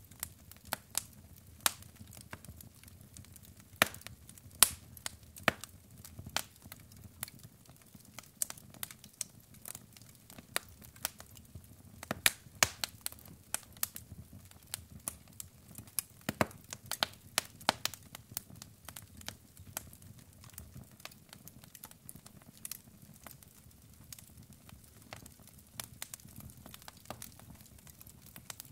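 Wood logs burning in a fireplace: irregular sharp crackles and pops, several a second at times, over a soft low rumble of the flames.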